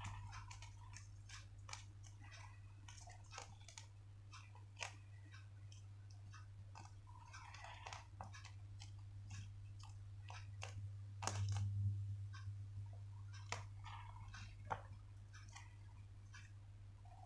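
Paper being folded and creased by hand: scattered crinkles and light taps, loudest a little after eleven seconds in, over a steady low electrical hum.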